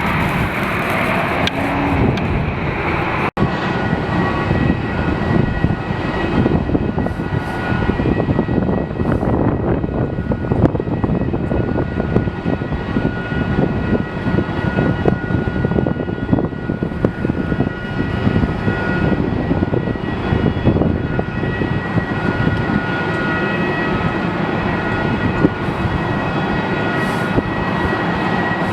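Jet airliner engines running with a steady, loud rumble and a high whine.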